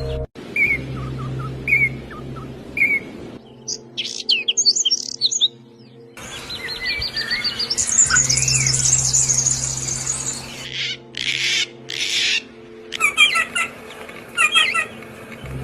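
Songbirds chirping and singing: repeated short high chirps and a fast trill about halfway through. The background changes abruptly several times, as if separate recordings were spliced together.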